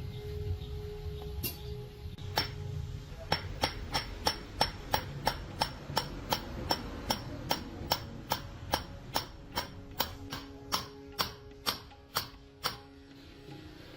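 A run of sharp, evenly spaced knocks, about two and a half a second, starting a couple of seconds in and stopping near the end.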